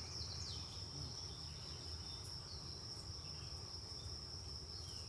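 A steady, high-pitched insect trill in the background, constant throughout, over a low rumble.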